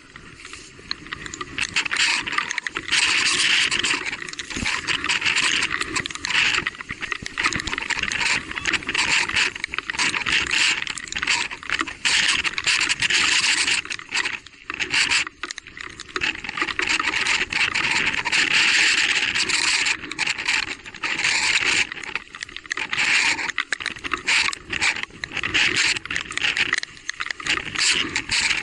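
Electric mountain bike being ridden along a wet, muddy trail: a continuous rushing, crackling noise of tyres, spray and small rattles that swells and eases every few seconds.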